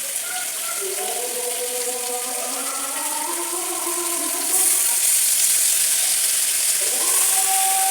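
Chicken curry sizzling in the pan: a steady frying hiss that gets louder about halfway through, with faint wavering tones underneath.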